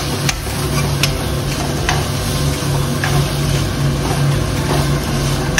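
Onion-tomato masala sizzling in oil in a pan, with a few sharp clicks of a spoon stirring it, over a low steady hum.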